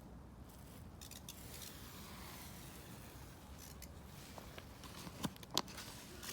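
Faint paper rustling and a few light clicks as the pages of a picture book are handled and turned.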